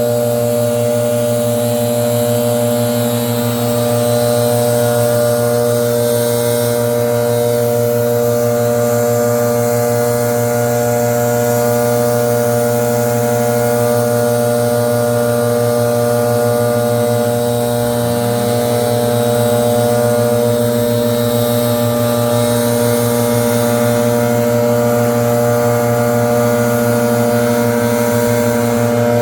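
Leaf blower running steadily at constant throttle: a loud, even engine drone with rushing air.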